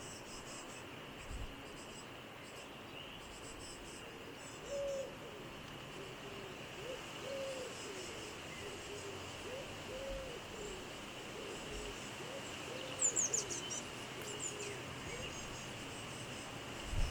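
A bird cooing: a repeated series of soft, low hooting notes that goes on for about ten seconds. A few high chirps come through near the end.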